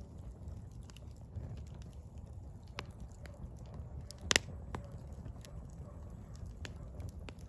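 Firewood burning with a low steady rumble and scattered small crackles, and one loud sharp pop about four seconds in.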